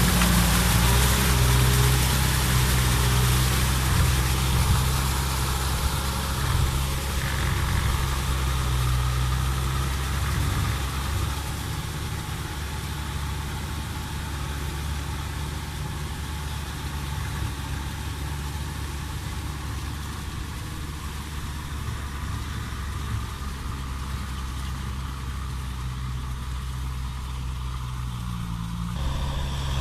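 Kubota M6040 tractor's diesel engine running steadily, its sound easing off over the first dozen seconds and then holding level, with a slight change near the end.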